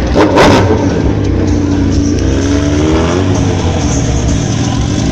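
Sport-bike engines at a drag strip: a steady engine drone, with a sharp loud throttle surge about half a second in and a rising and falling rev a couple of seconds later.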